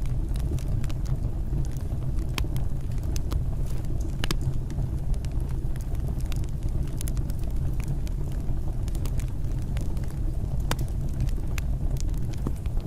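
Fireplace fire crackling, with irregular sharp pops over a steady low rumble of burning.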